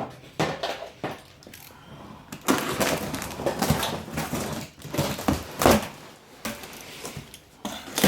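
A cardboard shipping box being opened by hand: a run of knocks and scrapes, then a few seconds of rustling and tearing, likely tape and packing foam being pulled about.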